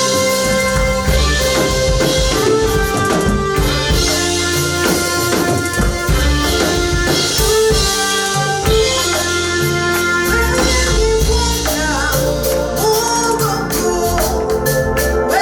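Praise-and-worship band music with a steady drum-kit beat, guitar and held keyboard chords; voices singing join in over the second half.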